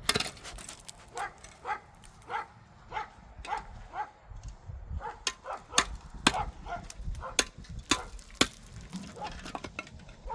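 A dog barking over and over in short barks, about two a second, with several sharp clicks or knocks among them.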